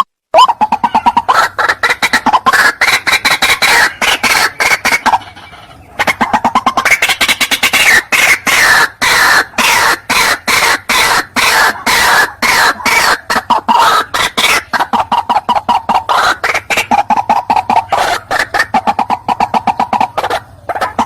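White-breasted waterhen (ruak-ruak) lure call: a loud, fast run of harsh repeated croaking notes that breaks off briefly about five seconds in, then resumes.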